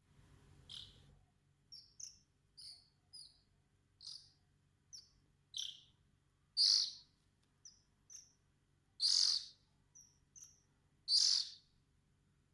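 Oriental magpie-robin calling: a string of short, high chirps at irregular intervals, with three louder, longer calls in the second half.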